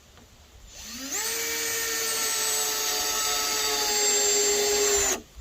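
A handheld electric power tool's motor spins up quickly to a steady high whine, runs at constant speed for about four seconds, then stops abruptly.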